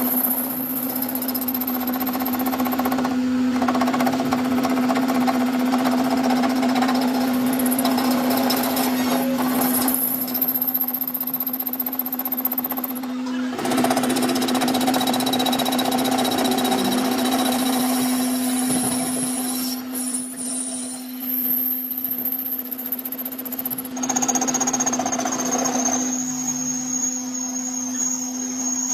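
A workshop power tool running continuously under load: a steady hum under a dense, rapid rattling noise that changes character several times.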